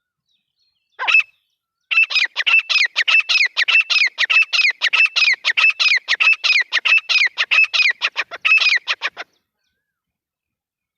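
Grey francolin calling: a single note, then a loud, rapid run of repeated harsh notes, about four a second, that stops abruptly about nine seconds in.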